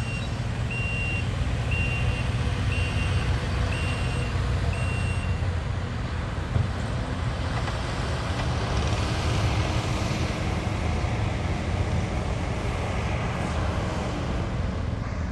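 A vehicle's reverse backup alarm beeps about once a second over a steady low engine and traffic rumble, then stops about five seconds in. Around ten seconds in, a rushing sound swells and fades, like a vehicle passing.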